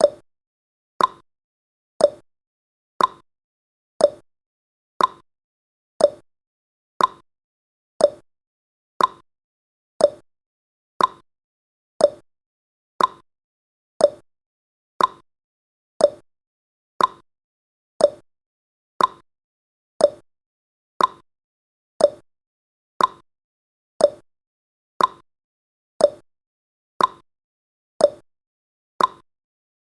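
Clock ticking sound effect for a countdown timer: one short tick every second, alternating a lower and a higher tick like a tick-tock.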